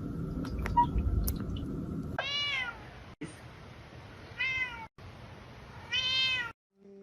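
A cat meowing three times, short meows about two seconds apart, each one falling in pitch at its end.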